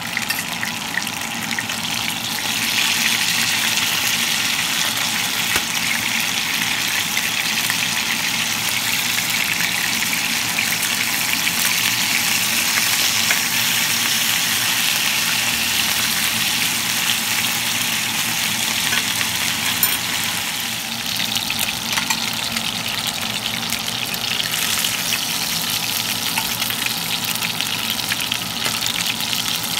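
Seasoned chicken thighs sizzling steadily in hot oil in a frying pan as they brown, with a few small clicks along the way.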